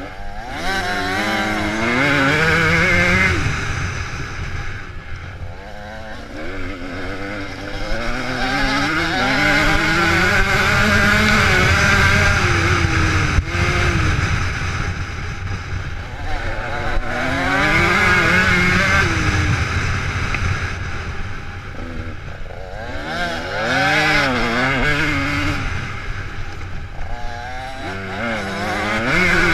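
Motocross motorcycles racing past, engines revving up and down through the gears, with several bikes overlapping. The sound swells and fades in waves as groups of riders pass, every six to eight seconds.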